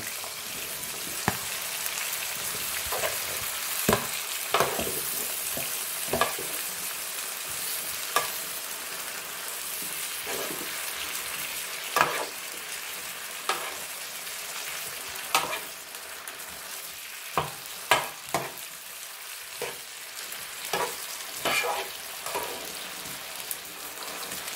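Shrimp, carrots, green beans and tofu sizzling in an electric skillet, with a steady hiss, while a metal spoon stirs them, scraping and clinking against the pan every second or two.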